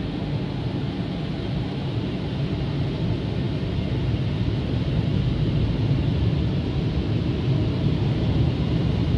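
Automatic car wash air dryer blowing over the car, a steady rushing noise that grows slowly louder.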